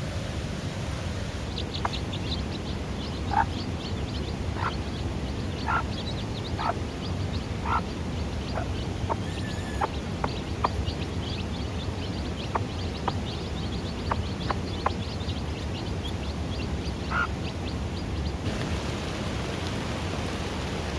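Newly hatched chicks peeping rapidly, with a dozen or so louder, lower calls from an adult bird among them, over a steady hiss. The peeping stops near the end.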